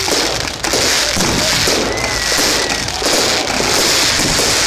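Fireworks display: a dense, continuous barrage of bangs and crackling from aerial shells and crackling stars. A short whistle tone is heard about two seconds in.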